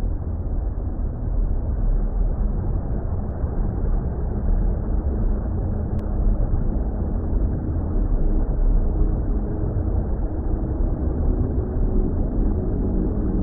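Steady, deep underwater water-rumble ambience, muffled with no high end. Faint low hum tones come in near the end.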